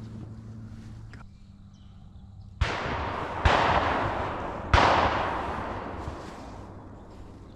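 Three shotgun shots in quick succession, a bit under a second and then about a second and a quarter apart, each followed by a rolling echo that fades over a second or more.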